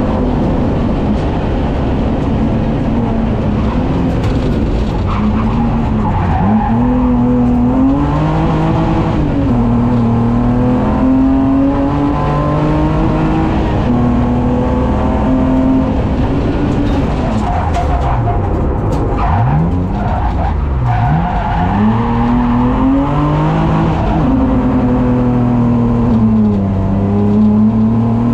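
Racing car engine heard from inside the cockpit at full hill-climb pace: the note climbs with the revs and drops at each gear change. A little after halfway it swoops down and back up twice in quick succession.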